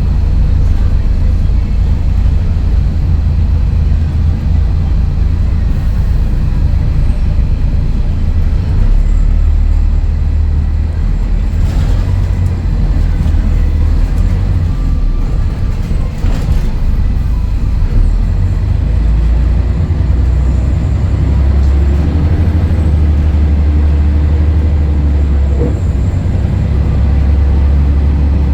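Scania DSC11 diesel engine of a Scania L113CRL bus running under way, a loud low drone that shifts in pitch and level several times as the bus changes speed.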